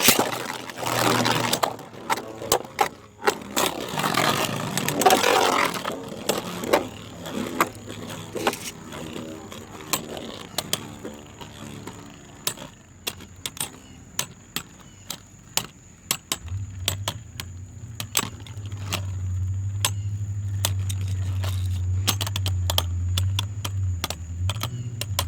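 Beyblade spinning tops launched into a plastic stadium and battling, with rattling noise at the launch. Then come many sharp clicks as the tops strike each other and the stadium, and a steady low hum starts about two-thirds of the way in.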